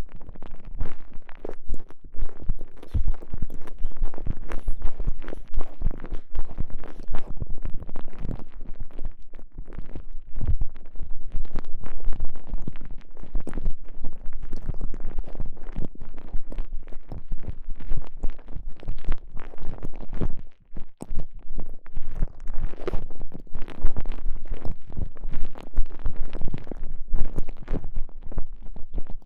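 TENGA Egg sleeve squeezed and rubbed over a microphone inside it. The result is a continuous, irregular run of muffled squishing, crackling and rubbing, close to the microphone.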